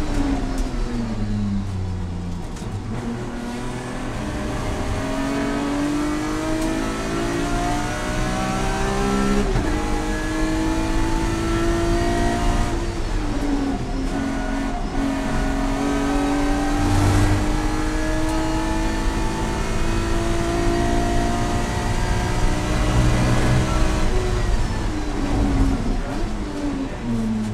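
Race-prepared car's engine heard from inside its caged cabin on a road course: revs fall under hard braking near the start, then climb through the gears with an upshift about a third of the way in. The engine eases briefly about halfway, pulls again and winds down under braking near the end.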